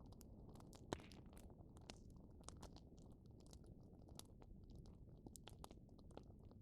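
Wood bonfire burning with a faint low rumble of flames and irregular sharp crackles and pops, the loudest pop about a second in.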